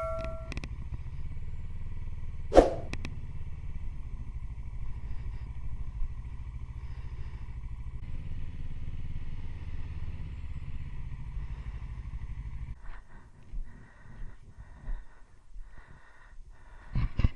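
Motorcycle engine idling with a steady low rumble that falls away about two-thirds of the way through, with one sharp knock a couple of seconds in.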